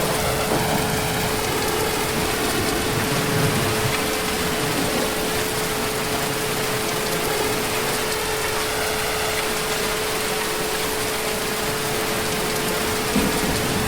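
Heavy rain falling in a steady, even downpour, with a steady tone underneath.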